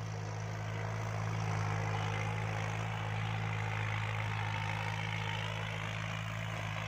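Kubota L3218 tractor's diesel engine running steadily under load while pulling a rotary tiller in second gear, a low even hum that swells a little in the middle.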